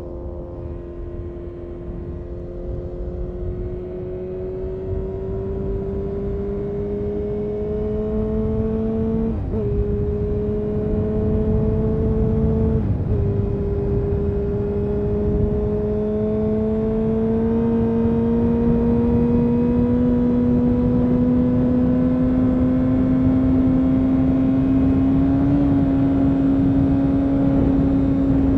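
A 2000 Honda CBR929RR Fireblade's inline-four with an Erion Racing full exhaust pulls steadily, its pitch climbing slowly. There are two quick gear changes, about nine and thirteen seconds in, and it grows louder toward the end.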